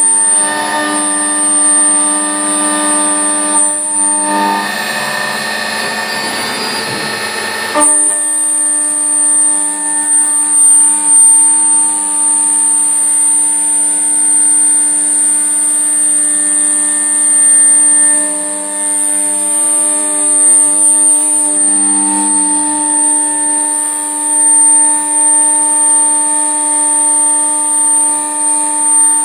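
Small Mazak Impulse CNC milling machine running with a steady, high machine whine. The sound turns noisier for a few seconds, then changes abruptly about eight seconds in and settles into a steady run again.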